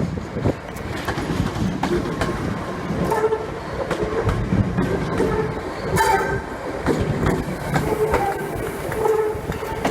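A train moving along the tracks at a station platform, with rail clatter and repeated short tonal notes.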